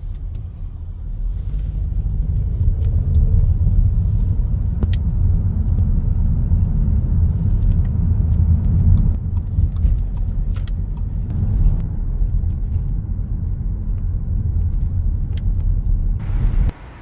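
Steady low rumble of a moving road vehicle, with a few faint clicks over it; it cuts off suddenly near the end.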